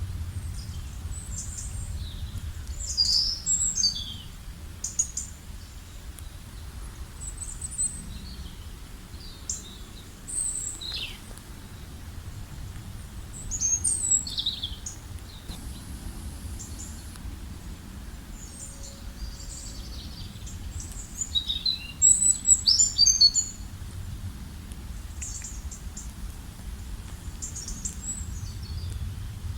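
Wild birds chirping and calling in short clusters of high, quick notes, some sweeping downward, loudest about three seconds in, near the middle and about two-thirds of the way through, over a steady low rumble.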